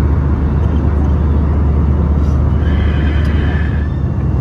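Airbus A321-200 cabin noise in flight: a steady engine and airflow drone with a strong low hum. About three seconds in, a faint higher tone sounds briefly over it.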